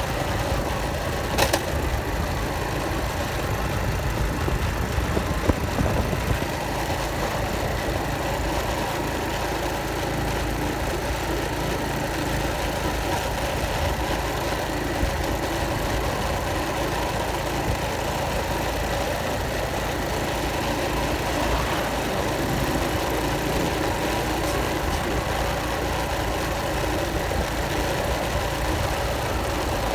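An engine running steadily, with a single sharp click about a second and a half in.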